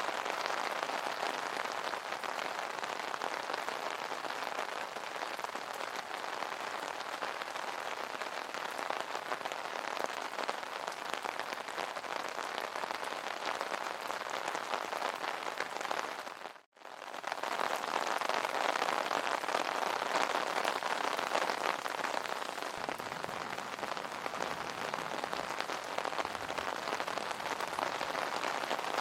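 Steady rain pattering on an umbrella, a dense drumming of many drops on taut fabric. About halfway through the sound cuts out for a fraction of a second, then comes straight back.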